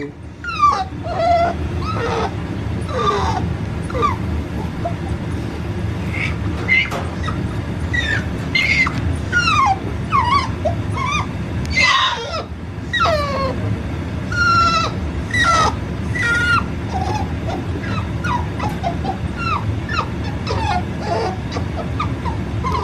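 American Bully puppy whining and whimpering after being shut in its crate: many short, high-pitched cries that bend up and down in pitch, one after another, over a steady low hum.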